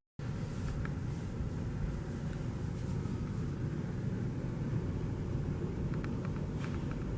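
Steady low rumble of a cruise ship underway, heard inside a lower-deck cabin, with a few faint clicks near the end.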